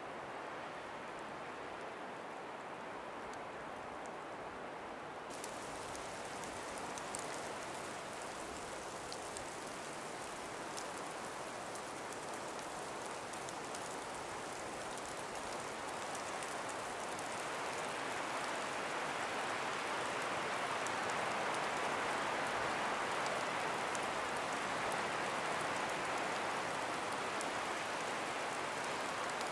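Breeze blowing through ice- and snow-covered forest trees, a steady hiss that swells louder about halfway through, with faint scattered high ticks.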